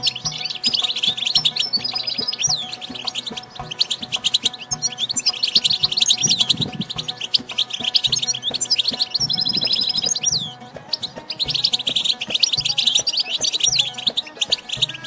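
European goldfinch song: a fast, liquid twittering of chirps and trills, in long runs broken by brief pauses about four seconds in and again near eleven seconds.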